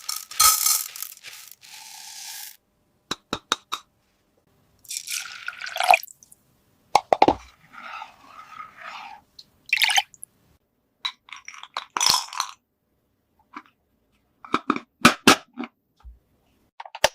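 Small plastic toy kitchen pieces being handled: scattered clicks, taps and short scrapes, separated by silent gaps.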